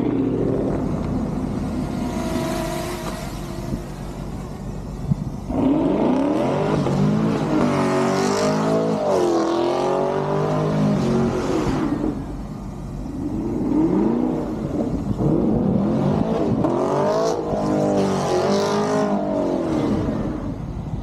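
V8 muscle car engine revving up and down over and over in two long runs, with a short lull between them, as in donuts or a burnout.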